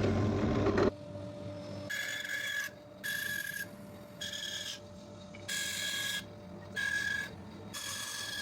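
A loud, rough noise lasting about a second, then six rasping strokes on wood, a little over a second apart, each with a squeaky ring.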